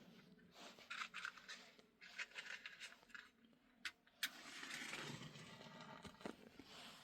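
Faint scraping and clicking, with two sharp clicks about four seconds in, followed by a short stretch of rustling noise.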